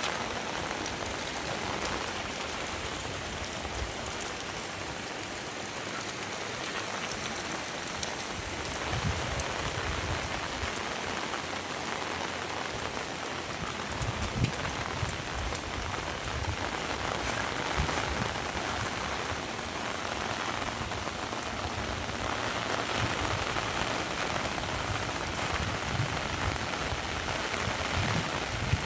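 Heavy rain falling steadily, with scattered dull low thumps from about nine seconds in.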